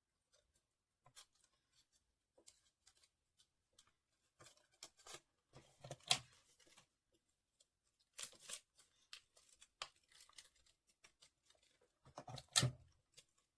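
Paper being handled and pressed together: scattered short rustles and crinkles, with sharper snaps about six seconds in and near the end.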